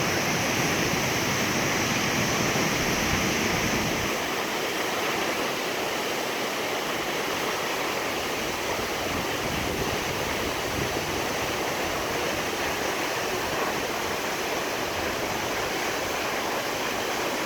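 Nachi Falls, a tall waterfall, sending water down in a steady, unbroken rush, with the deepest part of the sound easing slightly about four seconds in.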